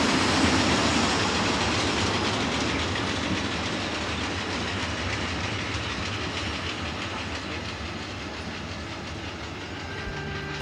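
A train's wagons rolling along the rails with a steady rumble and rattle that fades gradually as the train moves away.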